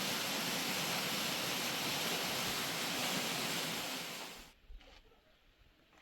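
Rushing river water, a steady even noise that cuts off abruptly about four seconds in, leaving near quiet with a few faint clicks.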